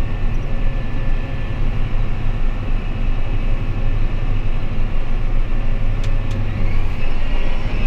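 Vehicle engine running steadily under way on the road, heard from inside the cab, still cold and driven gently to warm up. A faint whine rises in pitch near the end as it picks up speed, with a brief click about six seconds in.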